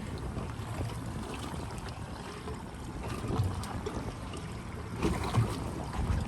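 Wind rushing over the microphone and water noise aboard a small boat at sea, a steady low rumble with a few brief bumps.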